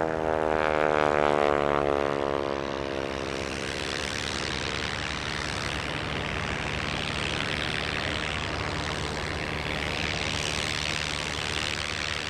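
North American NA64 Yale's radial engine and propeller during a flypast: a loud engine note that drops in pitch over the first few seconds as the aircraft passes, then a steadier, quieter drone with rushing noise.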